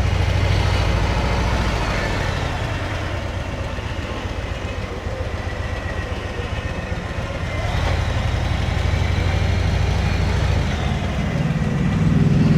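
Motorcycle engine running at low road speed with road noise, the engine note strengthening and easing off twice.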